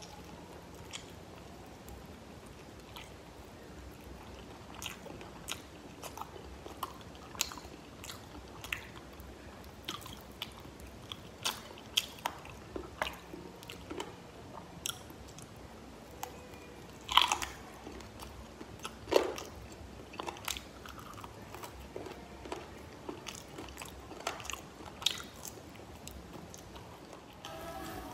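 Close-miked chewing of fried chicken wings: irregular crisp crunches and small wet mouth clicks as the crust is bitten and chewed, with two louder crunches about two-thirds of the way through.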